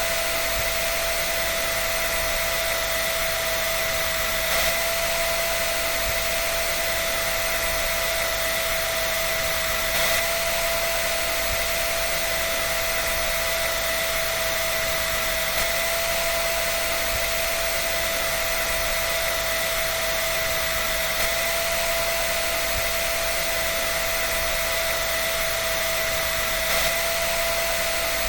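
Hair dryer running continuously: a steady rush of air with a constant motor whine, unchanging in pitch and level.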